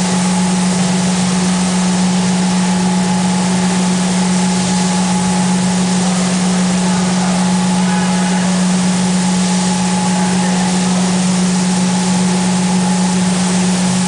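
Industrial coffee roaster running with its cooling tray: a loud, steady machine hum with a strong low drone, a fainter higher whine and a hiss of air, as the fan and stirring arms cool the freshly roasted beans.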